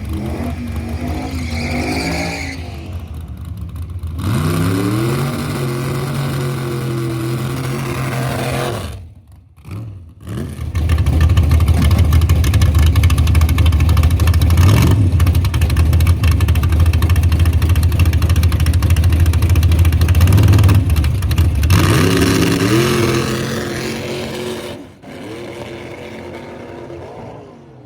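1980 El Camino's small-block V8 drag car revving in short pitch rises, then a long, loud full-throttle run in which the engine speed holds fairly steady, rising again near the end before easing off. The driver felt the car was either blowing through the torque converter or spinning the tires.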